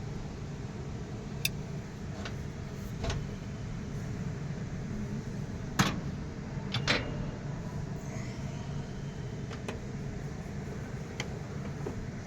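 Scattered metallic clinks and knocks of tools and engine parts being handled, over a steady low hum; the loudest knock comes about six seconds in, with two more close together just after.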